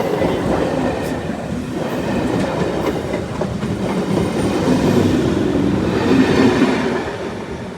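A train passing at close range, its wheels running over the rails in a continuous loud rumble and rattle that starts to fade near the end.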